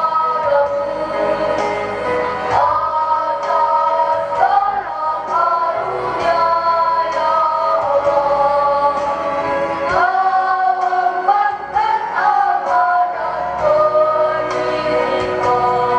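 Children's choir singing a slow hymn in unison with held notes over an instrumental backing track.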